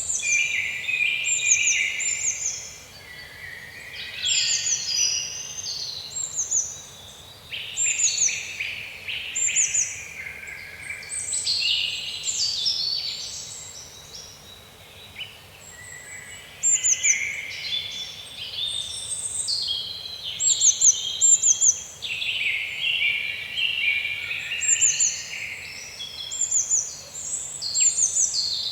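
Songbirds singing in a busy chorus: many overlapping chirps and short, high, quickly falling notes repeated in phrases, with brief lulls.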